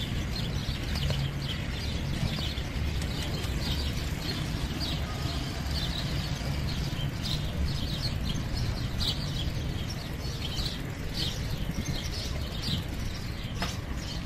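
Birds chirping, many short repeated chirps throughout, over a steady low rumble.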